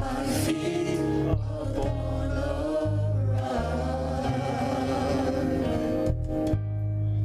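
Church worship team singing a slow gospel song, voices held over sustained bass and keyboard chords.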